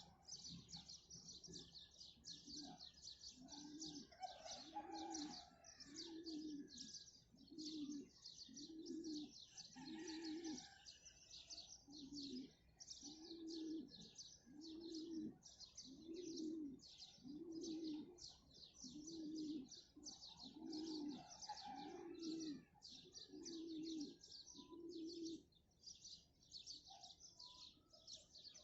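A dove cooing in a long, even series, about one coo a second, stopping near the end, over dense high-pitched chirping of small birds throughout.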